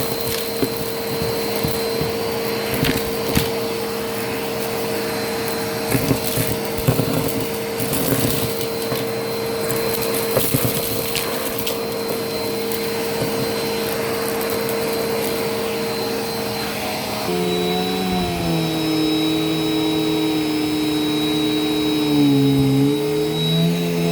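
Vacuum cleaner motor running steadily, with scattered crackles and clicks as crunchy debris is sucked up. About 17 seconds in, the motor's pitch changes suddenly and then wavers up and down.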